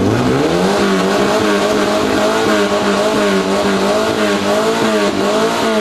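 1965 Volkswagen notchback's air-cooled flat-four running through open headers, revved up sharply at the start and held at high revs with a slight waver, the note starting to fall right at the end. It registers 114 decibels.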